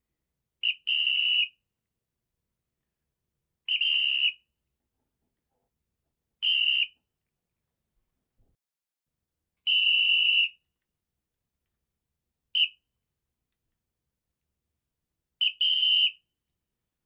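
Short, high-pitched whistle tones sounded in separate blasts with silence between: about six in all, some brief chirps and some held for nearly a second, a couple doubled in quick succession.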